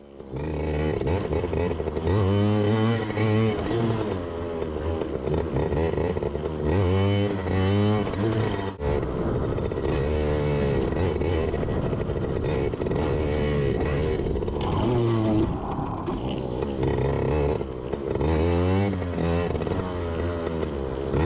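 Yamaha PW80 dirt bike's small two-stroke single-cylinder engine revved hard over and over for wheelie attempts. Its pitch sweeps up about four times as the throttle is snapped open, settling to a steadier run between.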